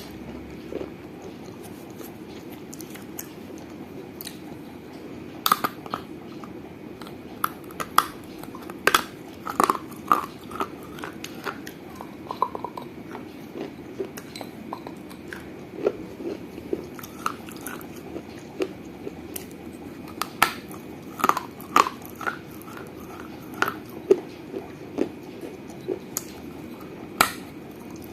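Fired clay from a small terracotta piggy bank being bitten and chewed close to the microphone: irregular sharp crunches and cracks, some in quick clusters, over a steady low hum.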